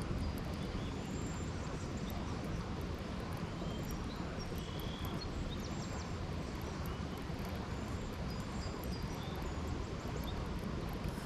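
Creek water running steadily over a shallow riffle, with scattered short, high bird chirps over it.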